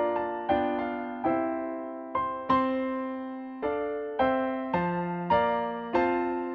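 Piano playing slow, quiet chords, a new chord struck every half second to a second and each one fading before the next.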